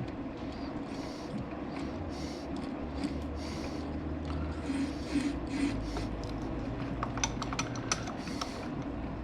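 Metal lathe running with a steady motor hum, the cutting tool scraping on the turning workpiece in repeated short passes. A few sharp metallic ticks come near the end.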